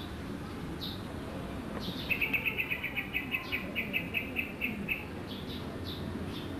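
Small birds chirping: short high chirps repeat every half second or so, and from about two seconds in a rapid trill of about seven notes a second runs for roughly three seconds.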